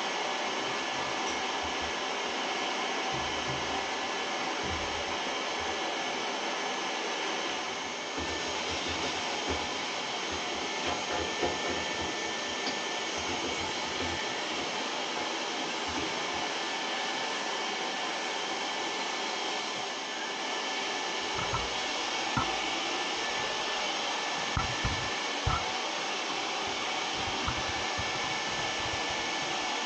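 Vacuum cleaner running steadily while cleaning out an oil furnace, with a few brief knocks now and then.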